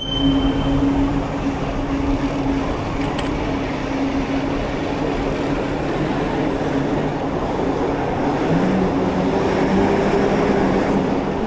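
City street traffic heard from a moving bicycle: steady road noise with a vehicle engine's hum, which changes pitch about eight seconds in.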